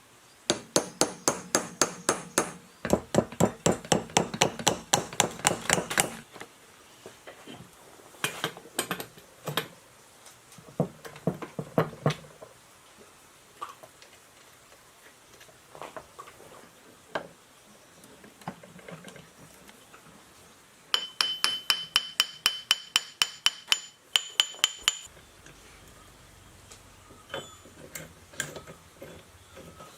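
Hammer striking metal in quick runs of sharp blows, about five or six a second, with scattered single strikes and lighter taps between the runs. During the second run the struck metal rings.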